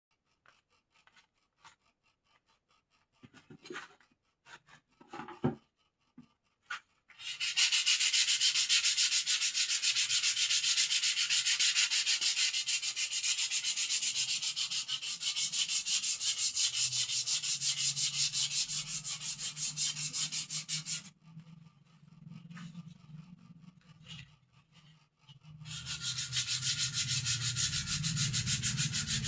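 Sandpaper rubbing quickly back and forth on the wooden parts of a bird cage, smoothing it. A few light knocks come first, the sanding runs for about fourteen seconds, stops briefly with a few more knocks, then starts again near the end.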